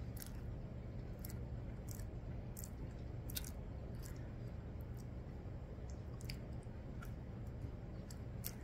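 A person chewing a soft, doughy pastry, with small wet mouth clicks every second or so over a low steady hum.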